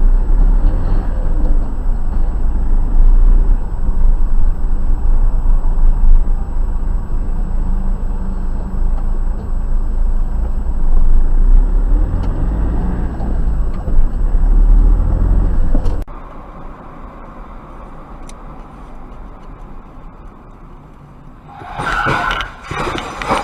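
Car on the move: a heavy, steady low rumble of road and engine noise. It cuts off suddenly about two-thirds of the way through, leaving a much quieter background, and a louder burst of noise comes in near the end.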